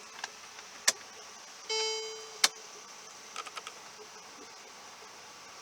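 A sharp click, then a short pitched chime that fades in under a second, followed at once by another sharp click and a few faint clicks.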